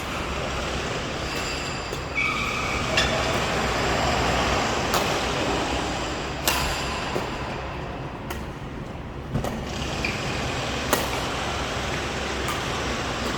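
Steady road-traffic noise with a few sharp knocks at irregular moments.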